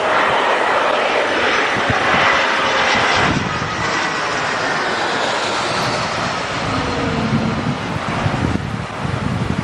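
Jet airliner passing low overhead on landing approach: its engine rush swells at the start, peaks about two seconds in and then eases off, with a faint whine falling in pitch as it goes by. Wind buffets the microphone in the later seconds.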